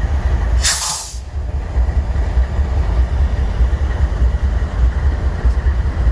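BNSF freight train with a short burst of air hiss, typical of air brakes venting, about half a second in, over a steady low rumble.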